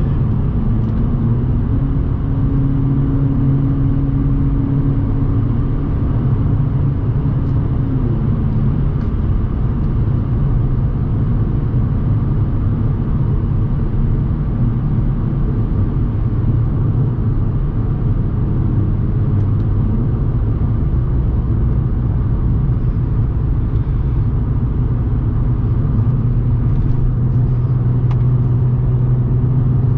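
Audi S4 B8.5's supercharged 3.0-litre V6, with AWE exhaust and test pipes, running steadily under way as a low drone. One tone in it drops in pitch about eight seconds in, and it grows a little louder near the end.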